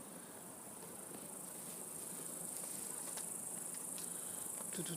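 Crickets chirring steadily in a high band, with a few faint clicks.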